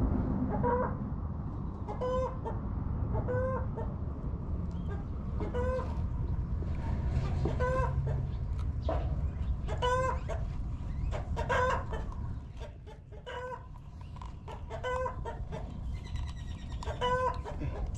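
A chicken clucking over and over, one short call about every second, over a steady low rumble.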